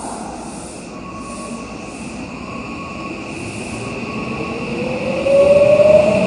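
Electric commuter train pulling away, its motor whine rising slowly in pitch and getting louder from about five seconds in.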